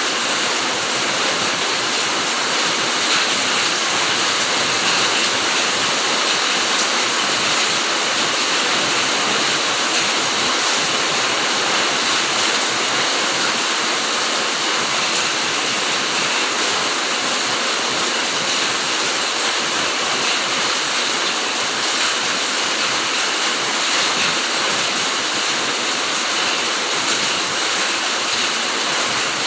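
Steady heavy rain falling, an even hiss of drops on foliage with no single drops or gaps standing out.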